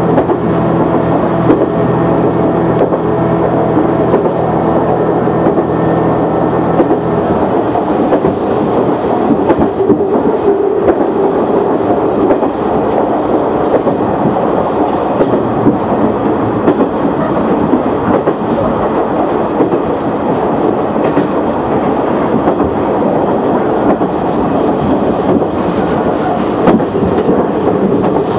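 KiHa 100 diesel railcar running along the line, heard from inside the car: a steady engine hum that fades out about seven seconds in, leaving the rumble of wheels on the rails with occasional rail-joint clicks.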